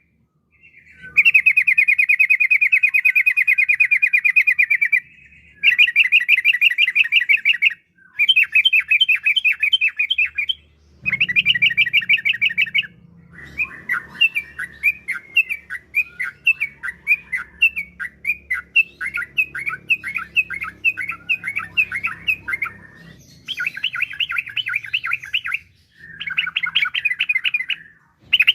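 Yellow-vented bulbul (trucukan) singing: a series of loud, rapid rolling trills a few seconds each, broken by short pauses. A stretch of choppier, varied chattering notes comes in the middle.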